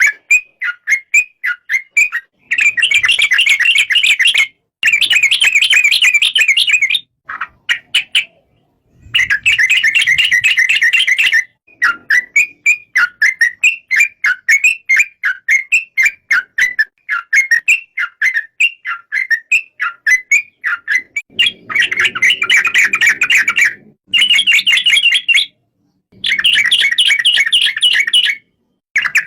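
Yellow-vented bulbul (trucukan) singing: runs of short bubbling chirps, about three or four a second, broken by dense chattering bursts, with several abrupt cuts to silence.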